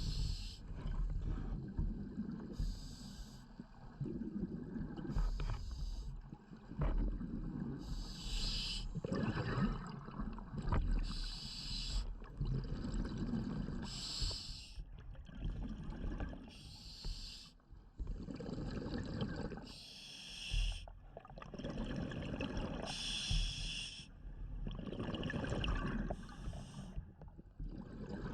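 A scuba diver breathing through a regulator: a short hiss of each inhalation alternating with the low bubbling rumble of the exhaled air, repeating every two to three seconds.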